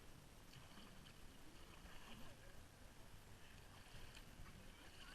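Near silence: a faint, even wash of lazy-river water.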